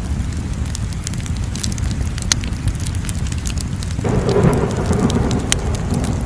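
Crackling fire: a steady low rumble of burning with scattered sharp pops and snaps. About four seconds in, a sudden louder rush of flame noise lasts for a couple of seconds.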